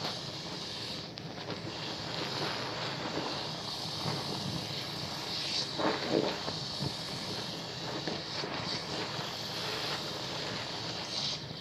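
Bar soap being lathered at a fairly fast pace: continuous wet rubbing and squishing, with a louder stretch about six seconds in.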